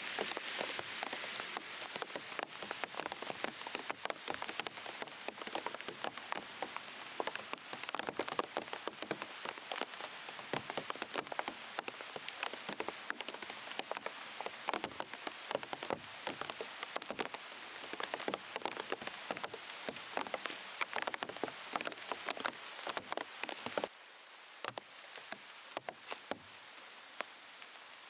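Raindrops pattering densely on the plastic sheet wrapped over the camera, a fast stream of sharp taps over the hiss of rain; the tapping thins out suddenly near the end.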